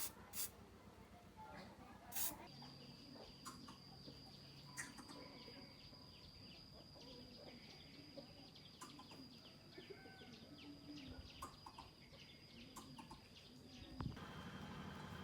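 Faint background of many short bird chirps, with a thin steady high-pitched tone behind them; near the end a steady low hum comes in suddenly.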